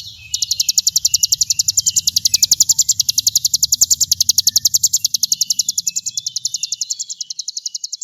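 Rapid, evenly pulsed high-pitched buzzing trill of about ten pulses a second, the 'brem' call used in an Indonesian songbird training (masteran) recording, with softer chirps beneath it. It breaks off briefly at the very start, and a low hum underneath fades out about seven seconds in.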